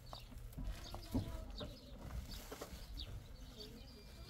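Small birds chirping repeatedly over a low outdoor rumble, with one louder sharp sound about a second in.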